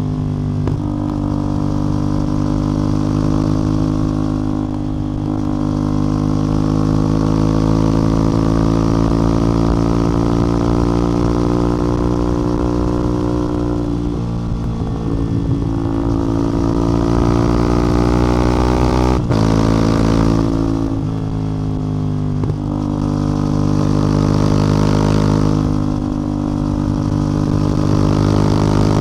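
CF Moto 450MT's parallel-twin engine and exhaust on the move, its note climbing slowly and then falling back several times as the bike is ridden. One sharp click sounds near the middle.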